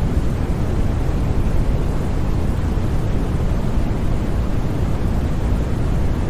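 Steady electronic white noise played as a sleep aid: an unbroken rushing hiss, heaviest in the deep low end and thinning toward the top, with no tones or sudden sounds.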